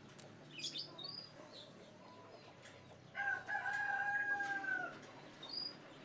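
A rooster crowing once, a single held call of about two seconds that drops in pitch at the end, with a few short high chirps around it.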